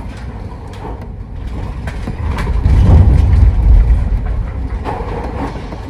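Low rumbling noise aboard a ferry at sea, swelling to its loudest around the middle and easing off again, with scattered light clicks.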